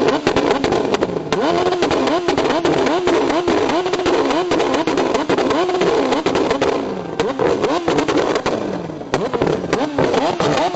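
Engine revved over and over through a loud aftermarket exhaust, the pitch climbing and dropping with each quick blip of the throttle, with sharp pops and cracks among the revs.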